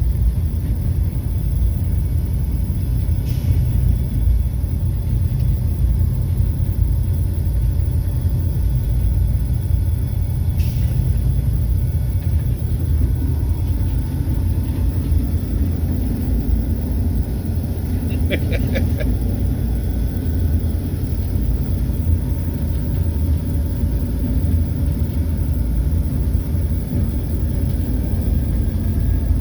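Steady low rumble of an EMD SD40-2 diesel locomotive running down track, picked up by a microphone mounted outside on its short nose and mixed with wind noise. A brief pitched tone sounds about two-thirds of the way through.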